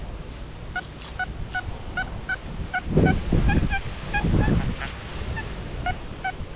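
Geese honking in a steady run of short calls, two to three a second, several birds at slightly different pitches. Wind rumbles on the microphone throughout, with two louder gusts about three and four and a half seconds in.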